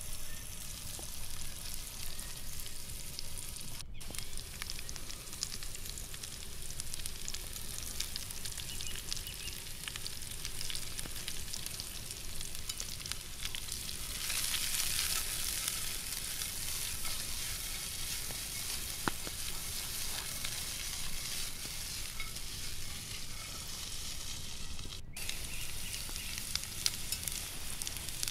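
Shredded beef with carrot and celery sizzling as it fries in a frying pan, a steady frying hiss that grows louder and brighter about halfway through.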